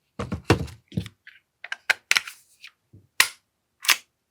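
A string of sharp, irregular clicks and snaps from an AAP-01 airsoft pistol's parts being pressed and clipped back together.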